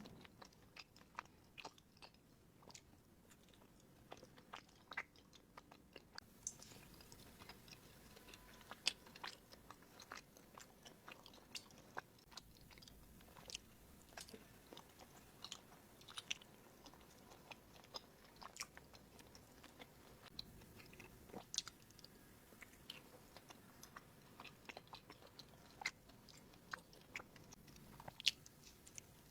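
Close-up chewing of bánh gai, a soft, chewy sticky-rice cake: faint, irregular wet mouth clicks and smacks, a few each second.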